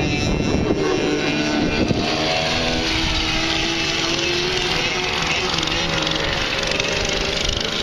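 Vintage racing motorcycle engines running hard on a race track, a continuous loud drone whose pitch drifts as the bikes rev and pass.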